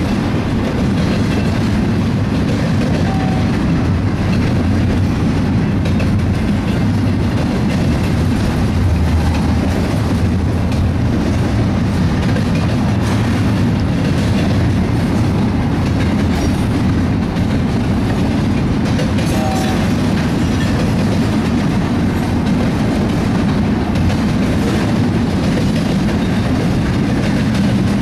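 BNSF double-stack intermodal container train rolling past, a steady rumble and clatter of its wheels on the rails.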